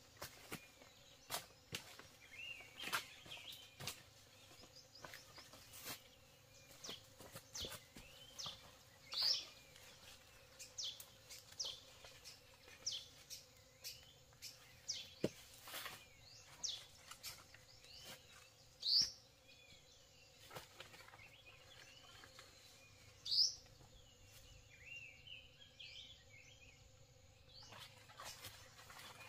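Wild birds calling, many short sharp high calls, with three louder ones spread through. Frequent light clicks and knocks run alongside them.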